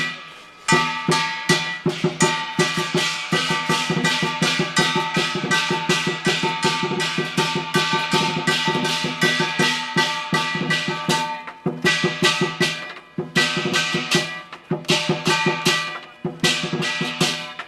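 Lion dance percussion: a Chinese drum beaten rapidly with clashing cymbals and a ringing gong, stopping briefly twice in the second half before starting up again.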